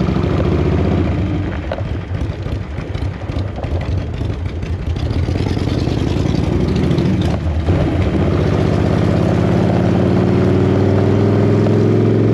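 Harley-Davidson chopper's V-twin engine running under way, with a brief dip about seven seconds in, then climbing steadily in pitch as the bike accelerates.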